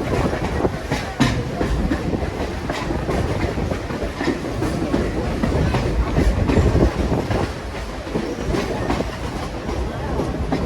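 Passenger railroad car rolling along the track: a steady low rumble, with the wheels clicking over rail joints at irregular intervals.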